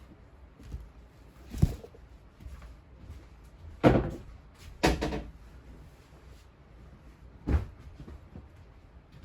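A few separate household knocks and bumps, four in all, the two loudest about a second apart near the middle.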